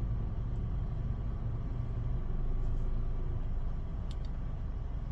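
Steady low mechanical rumble with a low hum, swelling slightly between about two and four seconds in.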